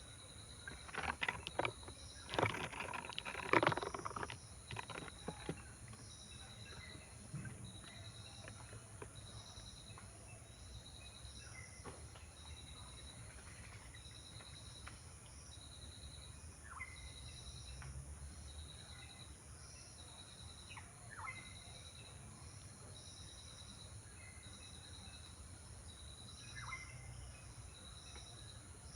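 Outdoor ambience with an insect chirping in a steady rhythm about once a second over a high hiss, and short falling bird calls every few seconds. A burst of rustling and clicks in the first few seconds is the loudest part.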